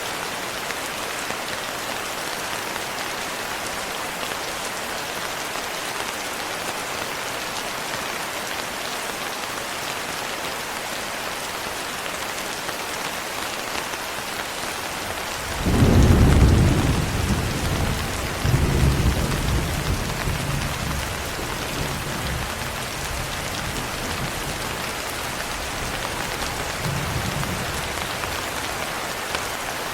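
Steady rain with a thunderstorm: about halfway through a crack of thunder breaks into a deep rumble, a second peal follows a few seconds later, and the rumbling fades back under the rain, with a faint last roll near the end.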